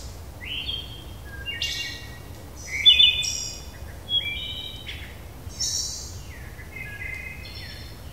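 Birds calling: a string of short chirps and whistles, one or two a second, some sliding up in pitch, the loudest about three seconds in.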